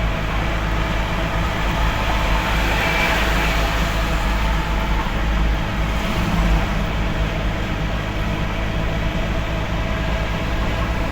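Delivery truck driving along, its engine and tyres making a steady, low rumble.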